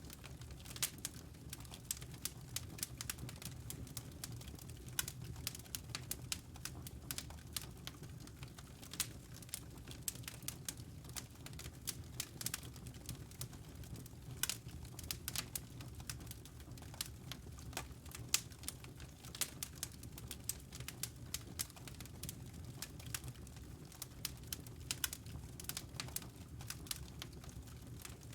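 Wood fire crackling in a fireplace: irregular sharp pops and snaps, many a second, over a low steady rumble.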